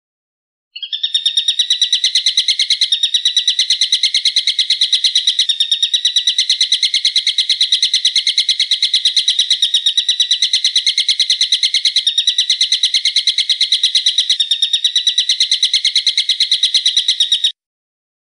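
A songbird's fast, unbroken, high-pitched trill, held steadily for about sixteen seconds and cut off abruptly near the end. It is a masteran recording, played to caged songbirds for them to copy.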